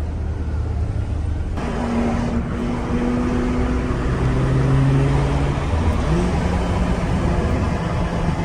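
Ferrari Purosangue's naturally aspirated V12 engine heard from inside the cabin while driving. The engine note grows louder and fuller about a second and a half in, and its pitch steps up about six seconds in.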